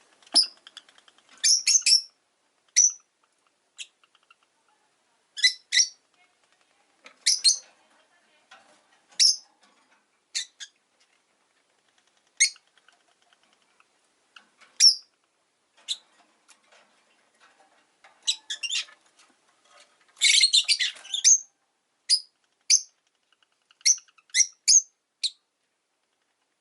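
Rosy-faced lovebirds giving short, sharp, high-pitched chirps every second or two, with a quick run of calls about two-thirds of the way through.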